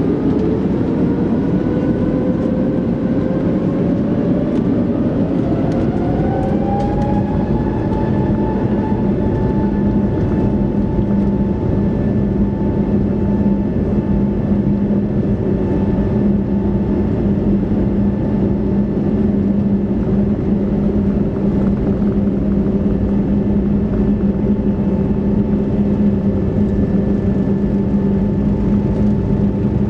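Airbus A321neoLR turbofan engines heard from inside the cabin, spooling up over the first eight seconds or so to a steady high whine, over a loud, steady rumble: takeoff thrust being set and held.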